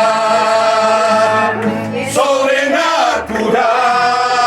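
Voices singing a slow Spanish-language hymn, holding long notes, with a change of note about two seconds in and a low pulsing accompaniment underneath.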